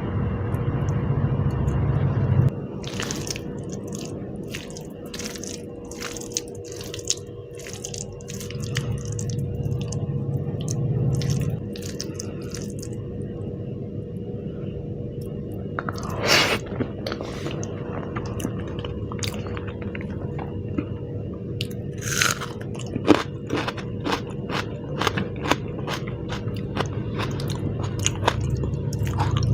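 Close-miked eating: chewing and biting with many short wet mouth clicks, some of them crunchy.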